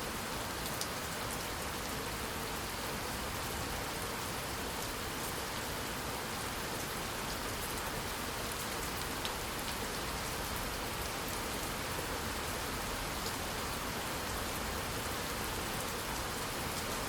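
Steady rain falling, an even hiss with scattered small ticks of individual drops; no thunder in this stretch.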